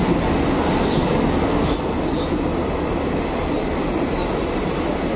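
Passenger train coaches rolling past a station platform: a steady rumble of wheels on the rails, with a couple of faint, brief wheel squeals about one and two seconds in.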